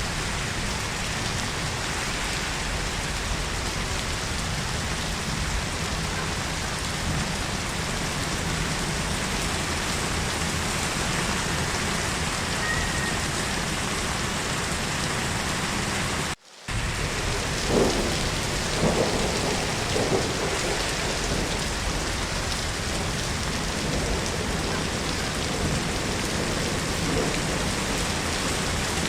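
Heavy rain falling steadily. The sound cuts out briefly about halfway through, then comes back with a few short rumbles of thunder over the rain.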